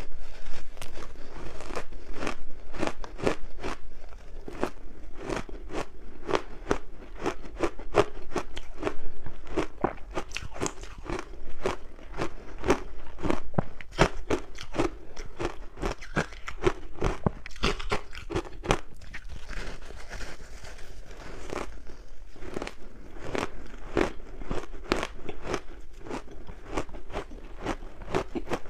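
A person biting and chewing crunchy ice dusted with matcha powder: a fast, irregular run of crisp crunches, louder in the first third.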